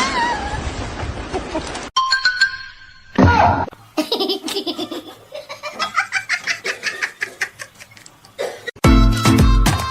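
A baby laughing in a long string of short giggles, followed near the end by music with a steady beat starting up.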